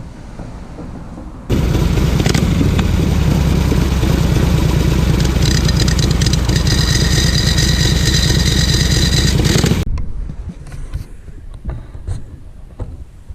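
Harley-Davidson V-twin engine running through its modified muffler, a loud, fast low pulsing with a thin high whine joining partway through. It starts abruptly about a second and a half in and cuts off suddenly after about eight seconds.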